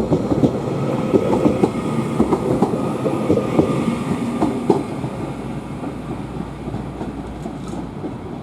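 Northern Class 331 electric multiple unit pulling out of the station, its wheels clacking over rail joints and points with a steady rumble underneath; the clatter thins out and the sound fades after about five seconds as the train moves away.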